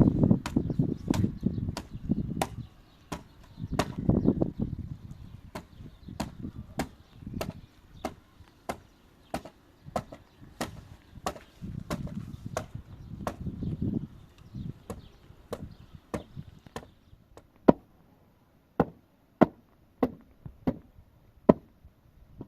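Steady series of sharp strikes on wood, about one to two a second: a tool chopping or driving into timber. Low rumbling runs under the strikes for the first half and then drops away, leaving the blows standing alone.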